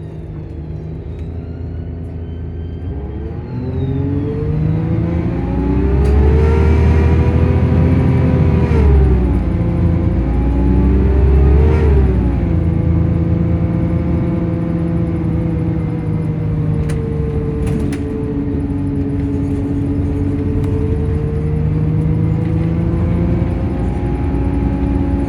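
Engine and cooling fan of a Volvo bus with Plaxton bodywork, running continuously. Engine speed rises about three seconds in, dips and picks up again twice, then holds fairly steady.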